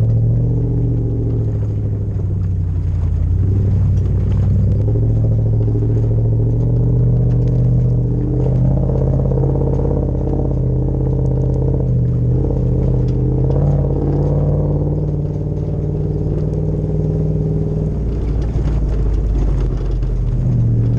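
Toyota LandCruiser 100 Series 4.7-litre 2UZ-FE V8 with a full exhaust, running under way with a deep, steady exhaust rumble. The engine note rises and falls a little a few times as the throttle changes, most noticeably about halfway through.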